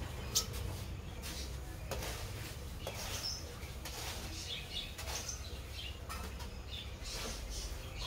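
Small birds giving short, high chirps here and there over a steady low rumble, with one brief sharp sound just after the start.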